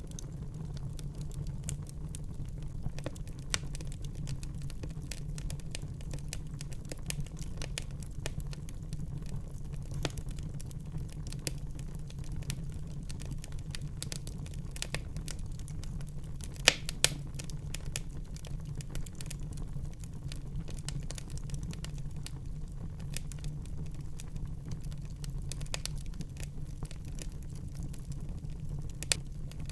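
Wood fire burning in a fireplace, crackling with many small sharp pops over a steady low rumble of the flames. Two louder pops come close together about halfway through.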